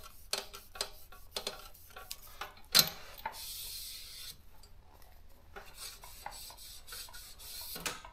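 Wet wipe rubbing over a Daro 20 typewriter's rubber platen in short, quick strokes, with a sharp click just under three seconds in and a brief hiss of rubbing after it.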